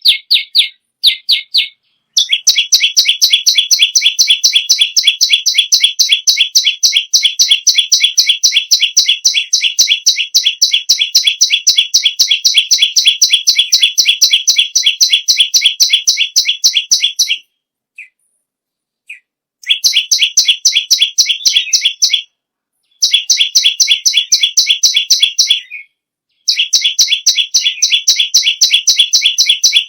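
A perenjak lumut (perenjak bawah) singing hard: long, unbroken runs of rapid, evenly repeated high chirping notes, broken by short pauses about 17, 22 and 26 seconds in.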